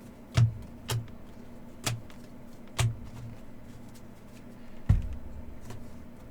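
Trading cards and packs being handled on a table: five sharp clicks and taps, irregularly spaced over a few seconds, with a steady low hum underneath.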